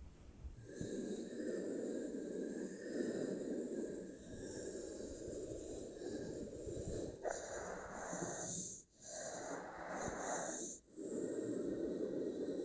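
A continuous close-up rushing, hissing noise, typical of an ASMR trigger. It changes tone about seven seconds in and breaks off briefly twice near the end.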